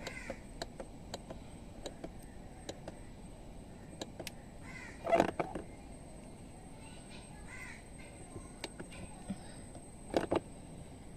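Crows cawing a few times, loudest about five seconds in and again near the end, over faint irregular ticks.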